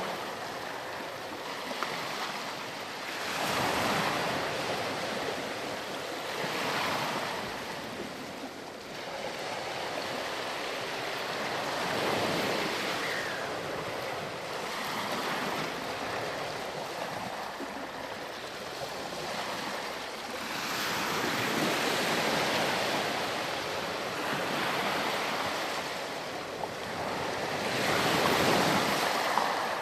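Ocean surf on a beach: waves breaking and washing in, the hiss of the wash swelling and ebbing every few seconds, with the biggest surges about four, twelve, twenty-two and twenty-eight seconds in.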